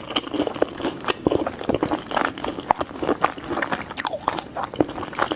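Close-miked chewing of pizza: irregular wet mouth clicks and crunching bites.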